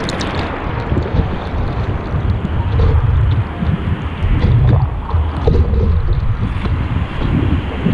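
Wind buffeting the microphone with a gusting low rumble, over the steady wash of ocean surf.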